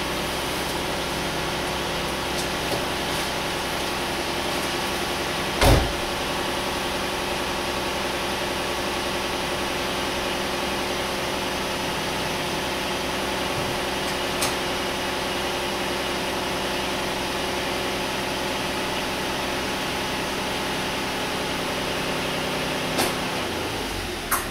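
2009 Dodge Journey's engine idling steadily while warming up after a cold start. A single loud thump about six seconds in, and a couple of faint clicks later; the low rumble grows slightly near the end.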